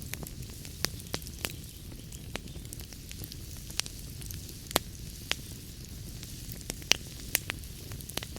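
Wood fire burning in a fireplace, with a steady low rumble and hiss under irregular sharp crackles and pops.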